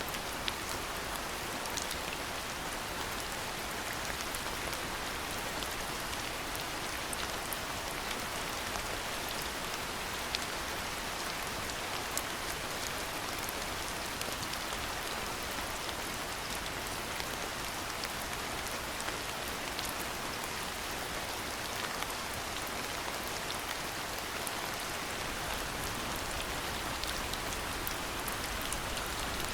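Steady rainfall, a continuous hiss with scattered sharper drop ticks of rain striking surfaces.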